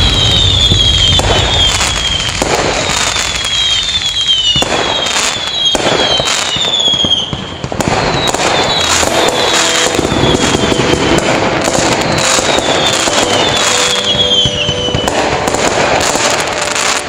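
Fireworks display: aerial shells bursting in dense, continuous volleys with crackling, overlaid by runs of high whistles that fall in pitch.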